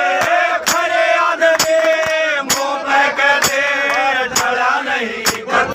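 Haryanvi ragni stage music: a sustained, ornamented melodic line over steady drum strikes about two to three a second.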